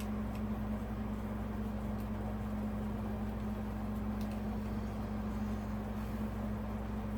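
Steady low machine hum with a constant tone, with a few faint clicks over it.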